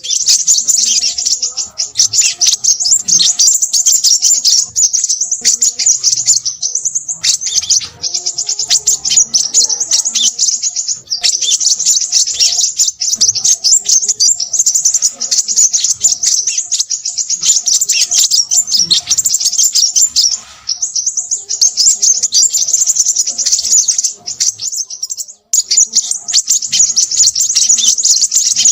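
Crimson sunbird twittering busily: a rapid, almost unbroken stream of high-pitched chirps, broken by a few short pauses.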